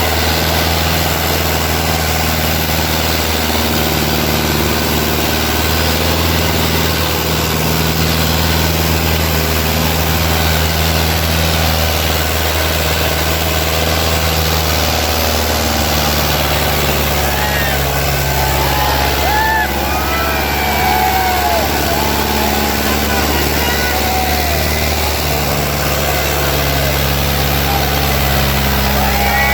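Sonalika DI 750 III tractor's diesel engine running steadily while pulling a harrow, its pitch shifting a few times. From about halfway, voices call out over the engine.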